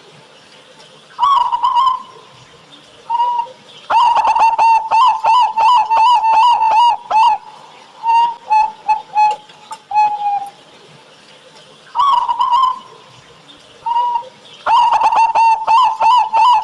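Local zebra doves (perkutut) cooing with a thick, full voice. Each song starts with a few separate coos and then breaks into a quick run of about four coos a second lasting a few seconds. Two such runs are heard, the second starting near the end.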